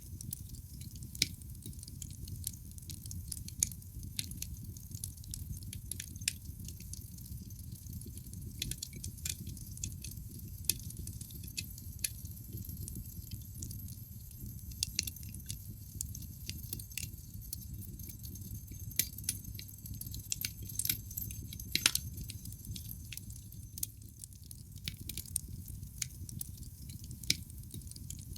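Wood burning in a fireplace, crackling with frequent sharp pops and snaps over a low, steady rumble of the flames. One pop, about three-quarters of the way through, is louder than the rest.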